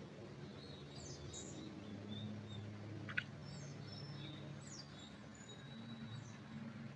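Songbirds chirping faintly, with short high notes and quick downward-sweeping calls, one sharper note about three seconds in, over a steady low background hum.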